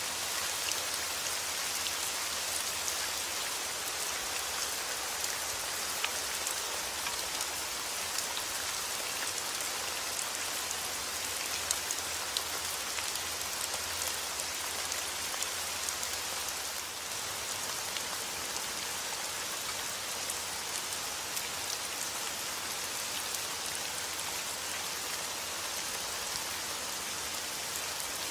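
Heavy rain falling steadily: an even hiss with many sharp little ticks of individual drops striking.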